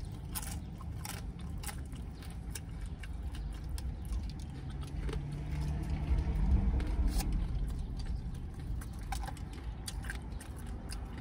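Close-up mouth sounds of someone biting into and chewing a beef taco: irregular small crunches and clicks over a steady low rumble.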